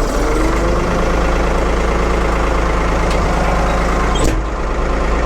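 1975 Ford 550 backhoe's engine running steadily just after being started, with a brief knock about four seconds in.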